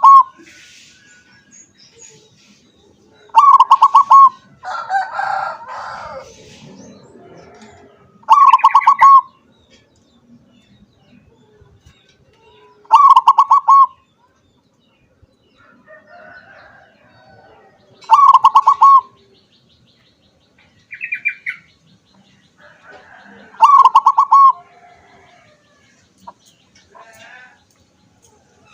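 Zebra dove (perkutut) singing, each song a quick pulsed run of cooing notes about a second long, repeated about every five seconds.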